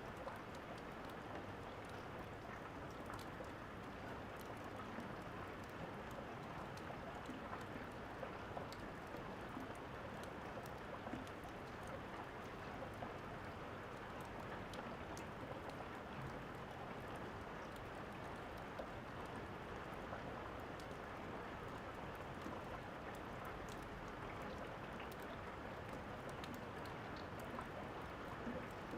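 Steady rain falling, with small crackles from a wood fire popping now and then.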